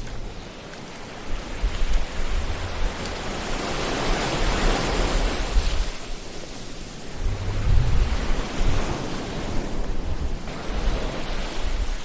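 Ocean surf rushing and washing ashore in waves, swelling about four seconds in and again around eight seconds, with a low rumble underneath.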